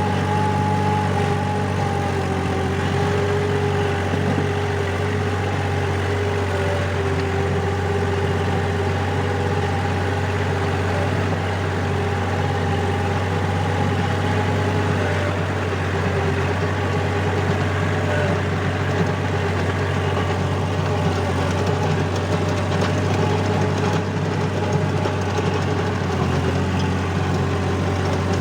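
Four-wheel-drive tractor engine running steadily while working a rotavator, a constant low hum with two steady higher tones over it.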